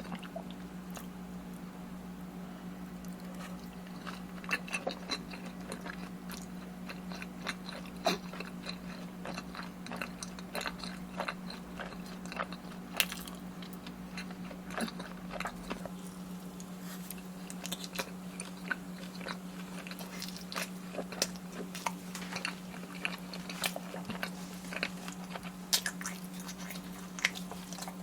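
Close-miked eating: a person biting and chewing food with irregular crunches and wet mouth clicks, over a steady low hum.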